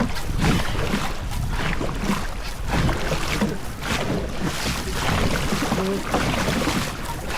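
Steady rushing of wind and water around a rowing boat out on the water, heavy in the low end, with faint distant voices near the end.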